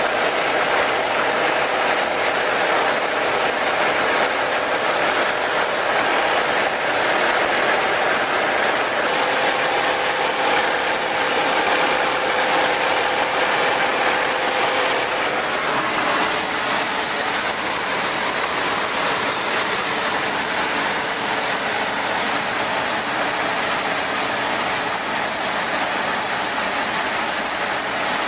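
Nanchang CJ-6's nine-cylinder radial piston engine running steadily; about halfway through its note drops a little and it gets slightly quieter.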